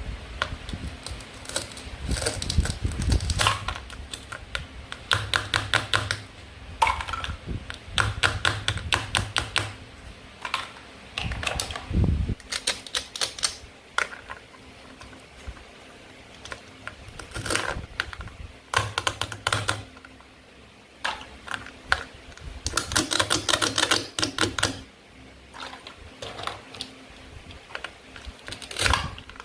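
Toy play-food fruit and vegetables being cut and handled with a toy knife: repeated bursts of rapid clicking and crackling, each a second or two long, with short pauses between.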